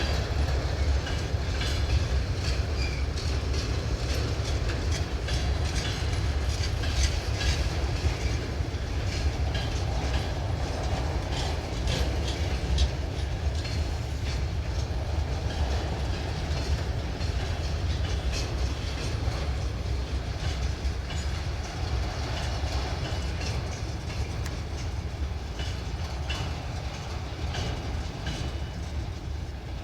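Freight train wagons rolling past with a steady low rumble, the wheels clicking over the rail joints.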